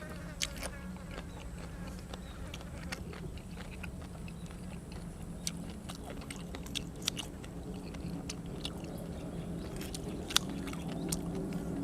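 Close-up chewing and biting of grilled cuttlefish and fresh vegetables, with scattered crisp clicks, over a steady low hum.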